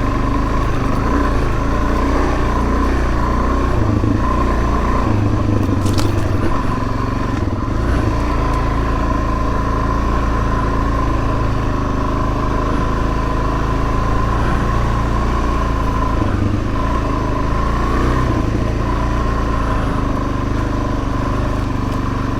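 Suzuki DR-Z400S dual-sport motorcycle's single-cylinder four-stroke engine running steadily while being ridden, with a brief sharp knock about six seconds in.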